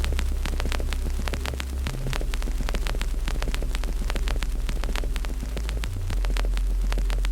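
Wood fire in a fireplace crackling, with many sharp pops and snaps in quick irregular succession. Under it runs a loud deep steady hum that changes pitch abruptly twice.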